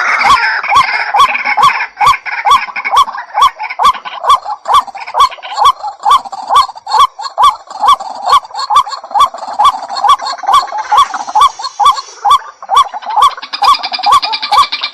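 White-breasted waterhen calling: a loud, regular series of short, harsh calls at about three a second, with more than one bird overlapping near the start and near the end.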